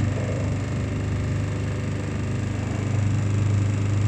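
Motor boat engine running steadily, a low even drone.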